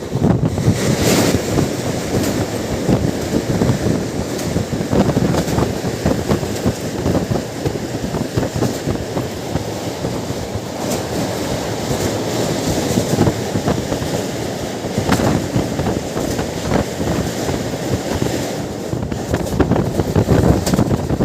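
Passenger train running over a river bridge: a steady rumble of wheels on the rails with scattered clicks, and wind buffeting the microphone.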